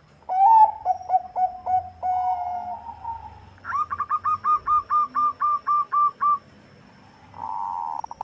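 Bangkok-line zebra dove (perkutut) cooing. It gives a string of short coos and a longer held note, then a quick, even run of about eleven higher coos, about four a second. A purring trill starts near the end.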